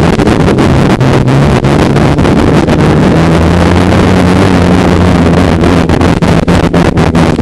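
Polaris snowmobile engine running steadily under way, its note stepping up a little about three seconds in, with wind rushing over the microphone.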